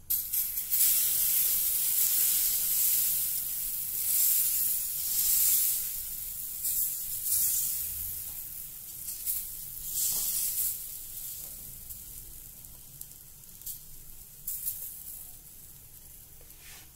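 Besan chilla frying on a hot tawa: a loud high sizzle that starts suddenly, flares up a few times and then slowly dies down.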